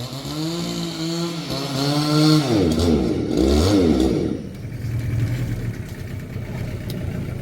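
Small boat's outboard motor running, its pitch rising and falling as the throttle is worked, then settling to a steadier, lower note about four and a half seconds in.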